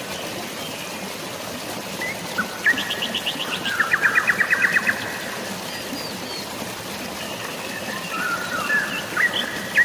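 Several birds chirping and calling over a steady hiss of drizzling rain and flowing water. From about three to five seconds in, one bird gives a fast trill of roughly nine notes a second.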